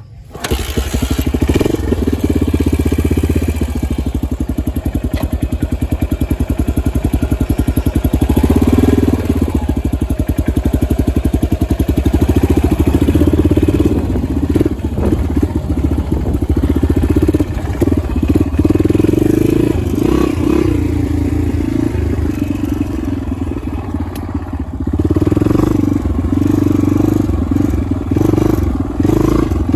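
Dirt bike engine running close up, its fast firing pulses steady, the pitch rising and falling a little as the throttle changes.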